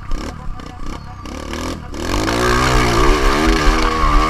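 Motocross bike engine revving, heard on board, louder from about halfway with its pitch rising and falling as the throttle works. Scattered thumps in the first half.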